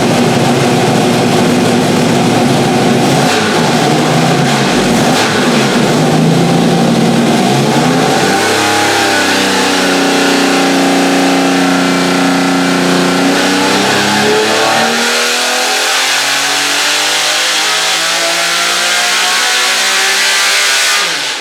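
Buick Grand National V6 running on an engine dyno, unboosted: it holds a steady speed, dips and recovers, then climbs steadily in a rising rev sweep over the last six seconds before cutting off abruptly.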